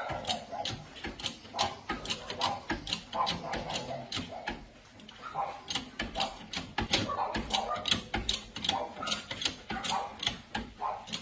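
Hand tools working on a motorcycle engine: a steady run of irregular metallic clicks and clatter, several a second, like a ratchet and parts being handled.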